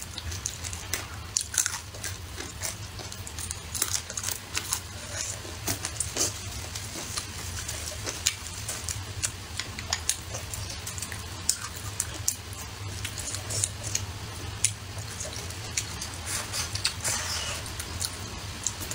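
Close-miked eating sounds: a person biting and chewing food, with many short mouth clicks and smacks over a steady low hum.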